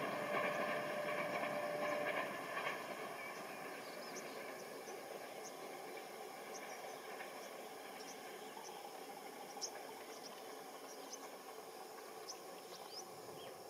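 A receding train's rumble and steady hum fade out over the first two or three seconds. What remains is faint open-air ambience with short high chirps of insects and birds scattered through it.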